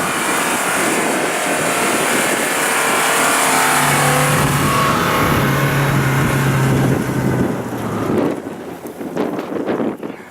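Off-road 4x4's engine revving hard under load over a loud rushing noise, its pitch held high for a few seconds and then dropping away about eight seconds in.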